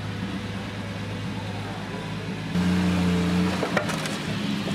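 Triumph TR6's straight-six engine running at low revs as the car rolls slowly past, a steady low tone that turns abruptly louder about two and a half seconds in. A sharp click sounds near the end.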